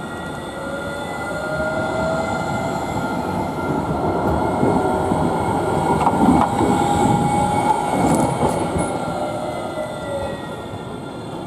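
Train running past with rumbling wheels and a high whine whose pitch climbs over the first few seconds, holds, then sinks near the end; loudest around the middle.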